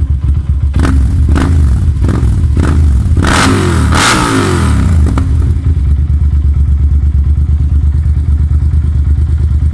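Yamaha TDM 900 parallel-twin engine through a Roadsitalia exhaust, idling with a handful of quick throttle blips in the first half, two of them longer revs about three to four seconds in, then settling to a steady, even idle.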